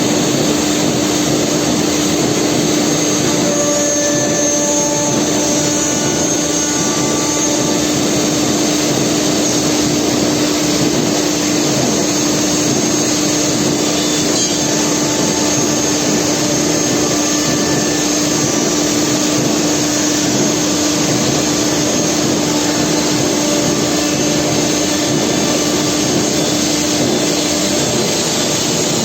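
Four-spindle CNC nesting router running and cutting wood-based sheet panel, a steady whine over a dense rushing machine noise. The whine fades out shortly before the end while the rushing noise carries on.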